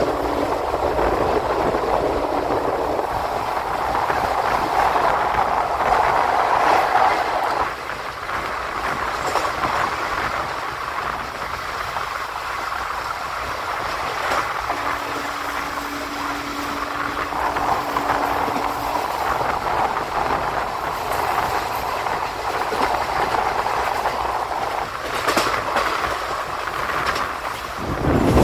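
ICF passenger coach running along the track: a steady rush of wheel and rail noise, louder for the first several seconds, with a few sharp clacks near the end.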